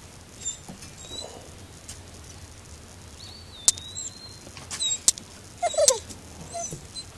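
Faint, thin, high squeaks from a small bird, one drawn out a little over a second, with a few sharp clicks in between.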